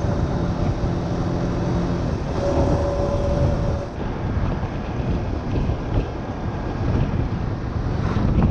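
Wind buffeting the microphone over the running engine of a Honda Winner 150 motorbike while riding, a steady rushing rumble.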